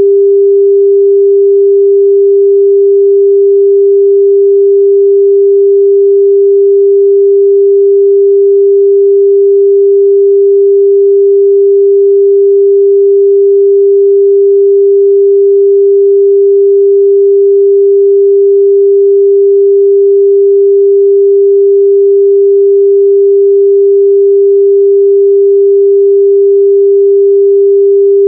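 A steady, loud 398 Hz sine-wave test tone, a single pure pitch held without change.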